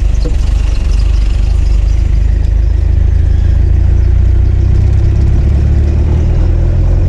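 Engine and road noise of a ute being driven slowly, a steady low rumble with the engine note rising slightly through the middle.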